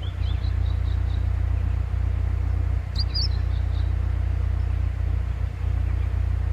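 Honda S2000's engine idling steadily, with a small bird giving a few short, high chirps, the clearest about three seconds in.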